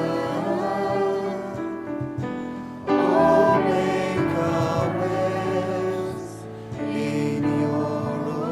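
Christian worship music with several voices singing together in long held notes over instrumental backing.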